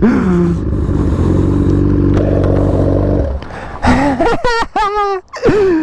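Suzuki GSX-R1000 inline-four engine running steadily for about three seconds, then excited shouting over it.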